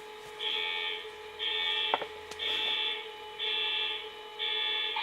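A model diesel locomotive's onboard sound system sounding five even alarm-like beeps, about one a second, over a steady low hum.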